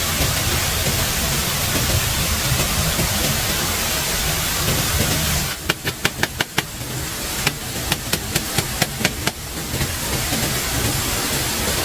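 A loud, steady rushing noise. Just past halfway it drops away for about four seconds while two quick runs of sharp knocks sound, and then the rushing returns.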